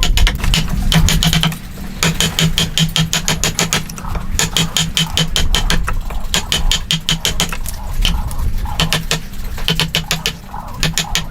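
Fast, repeated sharp knocks in bursts of several strikes a second, with short pauses between bursts, over a steady low hum.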